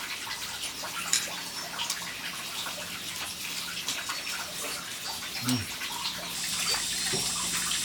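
Water running and splashing as a steady wash, with scattered small clicks and drips; it turns brighter and hissier about six seconds in.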